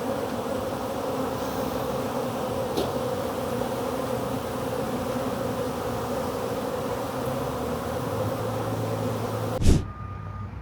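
Honeybees from an opened hive buzzing in a steady, dense hum of many bees flying, cut off by a sudden click near the end.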